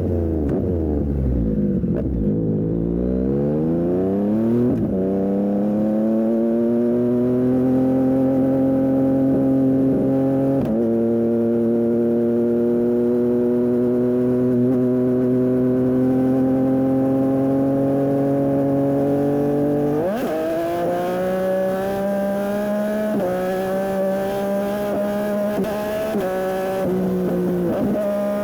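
Yamaha MT-09 SP's three-cylinder engine through an aftermarket Dominator exhaust, heard while riding. The revs fall and climb again, then rise slowly in one long pull. About two-thirds of the way in they drop sharply, and after that they hold nearly steady with small rises and dips.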